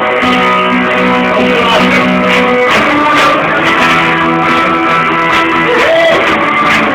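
Music led by guitar, strummed chords with a steady beat, the chord changing about two and a half seconds in.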